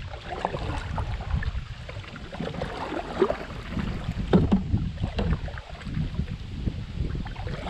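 Kayak drifting in river current: water lapping against the hull, with wind rumbling on the microphone and a few light knocks.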